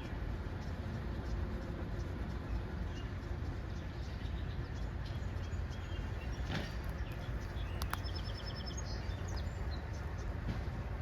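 Small birds chirping outdoors over a steady low rumble, with a quick run of short high notes and a couple of sharp clicks a little past the middle.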